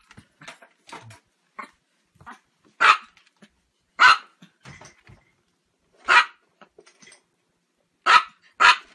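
Chihuahua barking in short, high barks: five loud ones spaced irregularly, the last two close together near the end, with a few quieter yips in the first couple of seconds.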